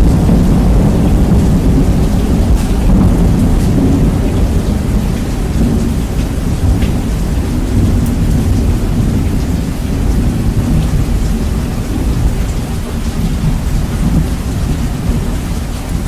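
Heavy rain with a long roll of thunder, bass-boosted and very loud. The deep rumble is strongest at first and slowly eases off.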